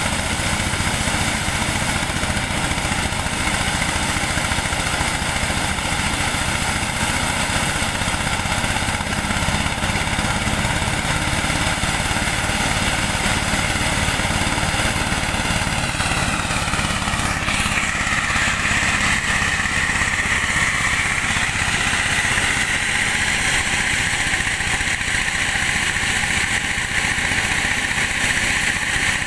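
Engine-driven corn sheller running steadily, threshing unhusked maize. Its pitch dips about halfway through and a higher, louder tone then holds.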